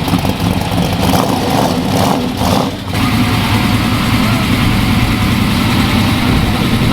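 Car engine running loudly and steadily, with a brief dip in level about three seconds in.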